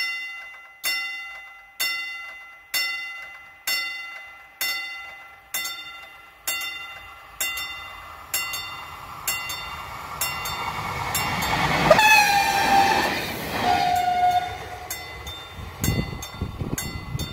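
Level-crossing warning bell striking about once a second. An electric passenger train comes up and runs past, sounding two horn blasts, the second lower in pitch. Its wheels knock over the rail joints as it goes by.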